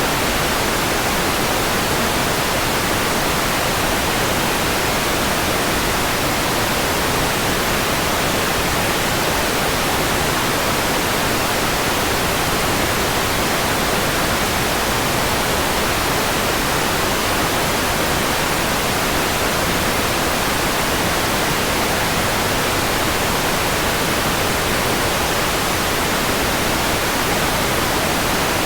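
Steady synthetic white noise: an even, unchanging hiss that is brighter in the highs than the lows.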